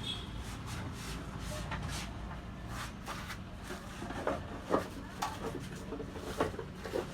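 Irregular light clicks and knocks, a handful of them close together in the second half, over a steady low hum.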